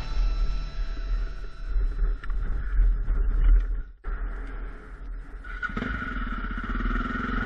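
Off-road motorcycle engine running, with wind rumble on the microphone; the engine note grows suddenly louder and steadier about three-quarters of the way through as the throttle opens. Background music fades out in the first second, and the sound drops out for an instant at the midpoint.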